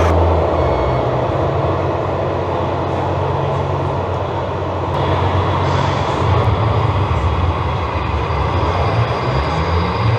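Engine-like running sound from a scale RC truck's electronic sound module, a steady low hum that shifts pitch a few times, over the general noise of a busy hall.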